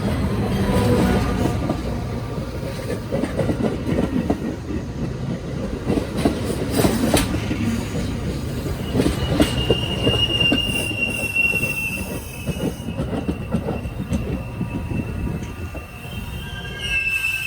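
Train rolling past on the rails: a steady rumble with a run of clicking wheel-on-rail clatter. About halfway through, a thin high-pitched wheel squeal comes in and holds to the end.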